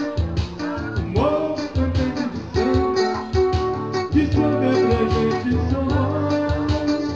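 Live music: guitar played over a steady beat.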